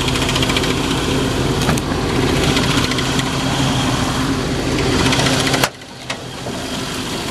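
Chevy Silverado 3500 gas engine idling, with a little rattle from the engine cooling fan hitting its shroud. The level drops suddenly about five and a half seconds in.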